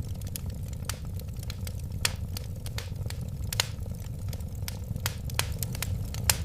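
Wood fire crackling, with irregular sharp snaps and pops several times a second over a steady low rumble of the flames.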